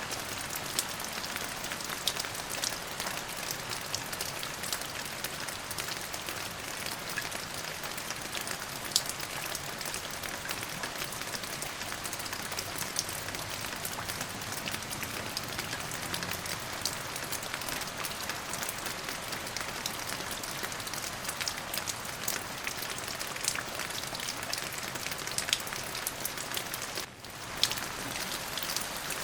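Steady rain falling on a surface, a dense patter of many separate drop ticks over an even hiss, dipping briefly near the end.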